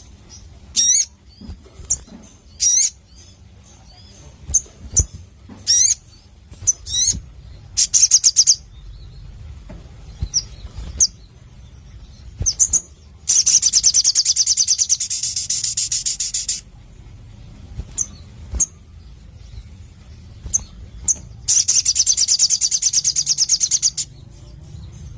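A sogon, a small sunbird-family songbird, calling: a series of short, sharp, high chips and quick pitch sweeps, broken twice by a long, fast, high trill lasting about three seconds.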